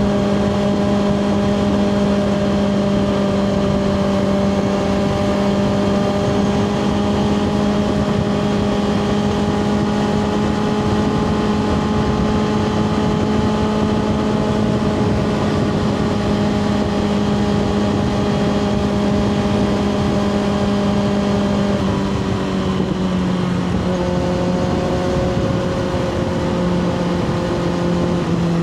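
2024 Kawasaki ZX-6R's 636 cc inline-four, breathing through a Two Brothers slip-on exhaust, running at a steady cruise with wind rushing past. The engine note holds nearly level for about twenty seconds, then drops in steps near the end.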